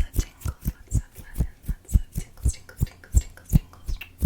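Fast tapping on a tabletop, a steady run of deep thuds about four a second, each with a light click on top.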